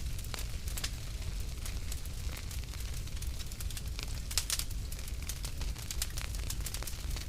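Wood fire crackling, with irregular sharp pops and snaps over a low steady rumble; a cluster of louder pops comes about four and a half seconds in.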